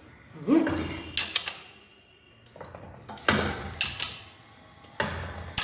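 Spanner turning and tightening the cylinder-head nuts of a single-cylinder diesel engine, opposite nuts in turn: three rounds of metal scraping, each ending in sharp metallic clinks as the spanner comes off and is set on the next nut.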